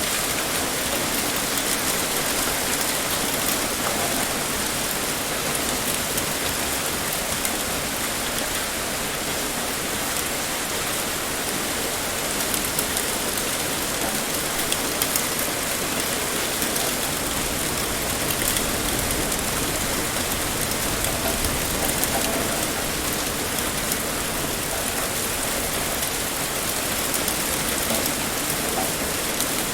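Heavy rain pouring steadily, a dense even hiss with many fine drop ticks.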